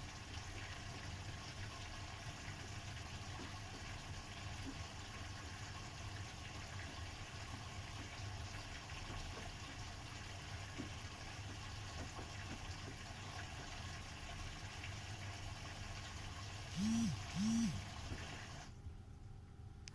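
Bosch washing machine on its easy-care 40 °C programme, water running into the drum with a steady low hum. Two short, loud tones sound close together near the end.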